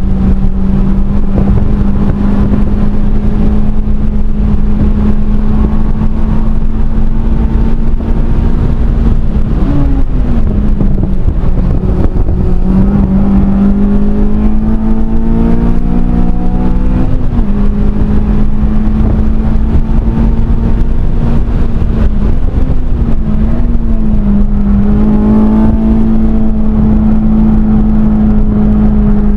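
Honda Civic Si's K20 four-cylinder engine heard from inside the cabin, held high in the revs at full throttle around a racetrack. The engine pitch dips and climbs again several times as the car brakes and changes gear, over a heavy low rumble of road and wind noise.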